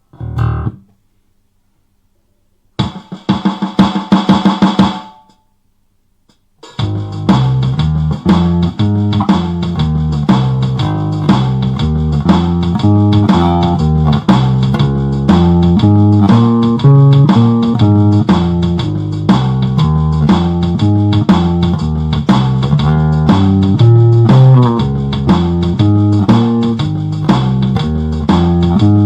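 Two short bursts of sound in the first five seconds, then an electric bass guitar playing a riff of low plucked notes over a drum beat.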